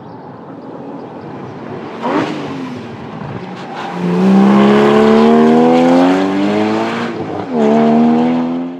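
Porsche flat-six sports car engine accelerating hard through the gears. The engine note climbs steadily for about three seconds, drops briefly at an upshift, then climbs again near the end. Before that, quieter engine and road noise, with a short rising-and-falling sweep about two seconds in.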